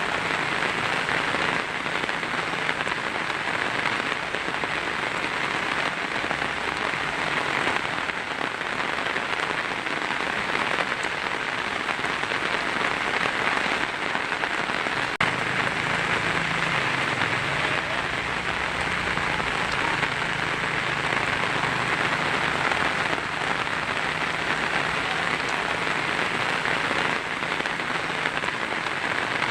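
Heavy rain drumming steadily on a tin roof, a dense, even patter of drops with no break.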